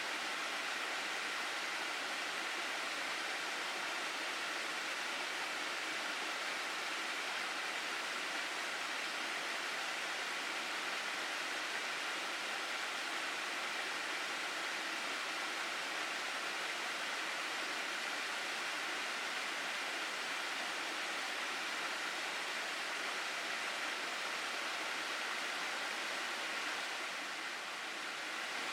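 Mountain stream in a gorge, water rushing steadily over rocks as a continuous even hiss, easing slightly near the end.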